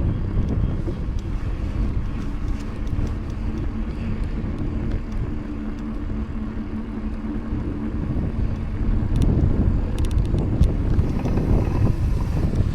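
Wind noise on the microphone and tyre rumble from a mountain bike riding on pavement, with a faint steady hum in the middle and a short run of sharp clicks near the end.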